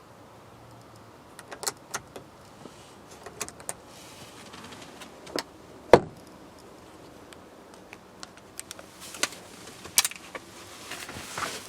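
Irregular clicks and knocks of car interior fittings being handled inside the cabin, the sharpest about six seconds in.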